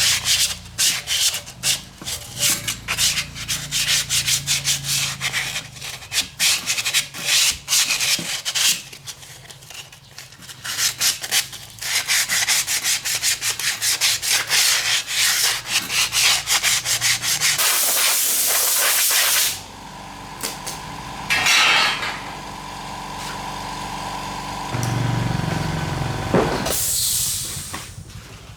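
Rapid rubbing strokes over a hard surface, like sanding or scrubbing a metal part by hand, for most of the stretch. About eighteen seconds in comes a short hiss, then a steadier hum with a second short hiss near the end.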